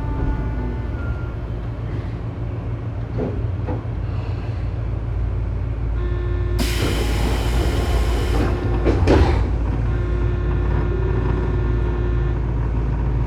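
Tobu 9000-series electric train standing at a station with its onboard equipment humming steadily; about six and a half seconds in, a sudden hiss of compressed air lasts a couple of seconds, followed by a couple of knocks.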